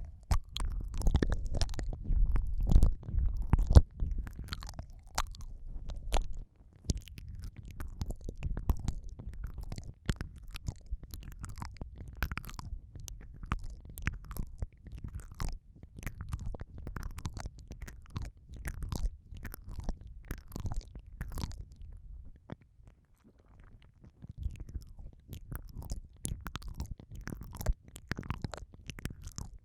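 Close-miked ASMR 'ear eating' mouth sounds: a dense run of wet clicks and smacks over a low, muffled rumble, heaviest in the first few seconds.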